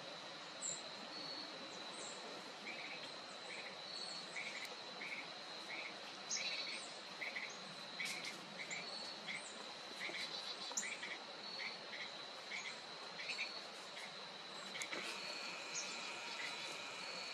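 Outdoor feeder ambience: a steady high-pitched insect drone, with a bird giving a run of short, repeated chirps about two a second, ending a few seconds before the close.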